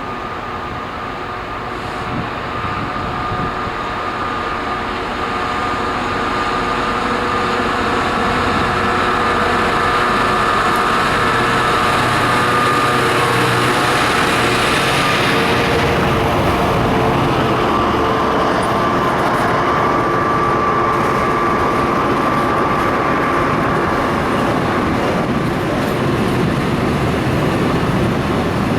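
Diesel train approaching and running past, growing louder over the first ten seconds, then holding steady, with steady humming tones over the rail noise.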